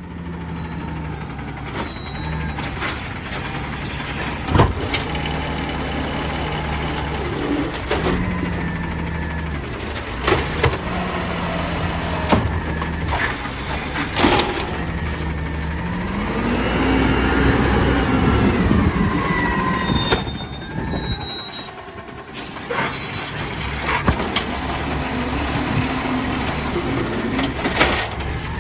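Diesel engine of a Peterbilt 320 garbage truck with an Amrep automated side loader, running and stepping up and down in speed several times, with its longest rise and fall a little past the middle. Several sharp bangs and clatters are heard along the way.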